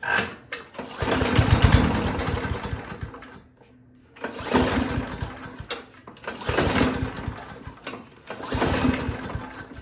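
Craftsman walk-behind lawnmower engine being pull-started with its recoil starter: four pulls about two seconds apart, the first the longest. The engine cranks over freely each time but does not start.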